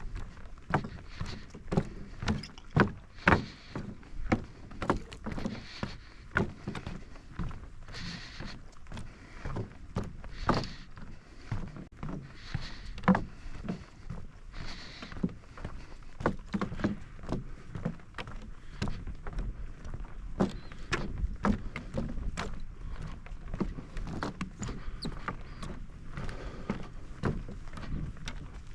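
Footsteps at walking pace, about two steps a second, on a hard walkway, with a few short bursts of hiss in the middle.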